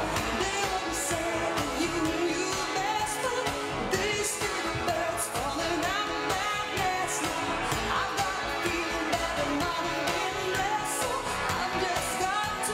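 Recorded pop song playing: a singer's voice carrying the melody over a steady beat.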